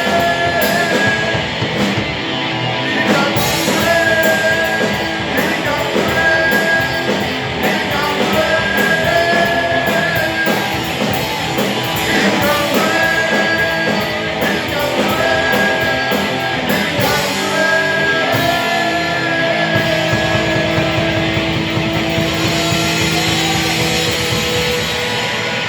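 Rock band playing live: electric guitars, bass and drums, with sustained melody lines; near the end the music settles onto long held notes.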